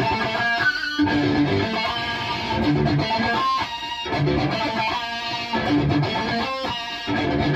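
Distorted electric guitar through a Bogner Uberschall preamp, played dry without effects: lead phrases that alternate low riffing notes with held higher notes.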